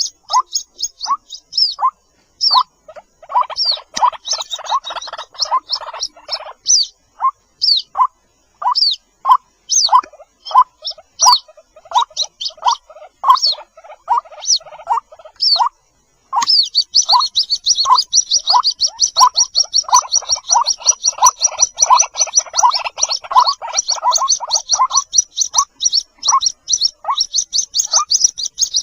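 Lure recording of white-breasted waterhen (ruak-ruak) calls, billed as chicks calling for their mother: a string of short, high, downward-sliding peeps with a lower series of notes alongside. About halfway through, the high peeps turn into a much faster, continuous run.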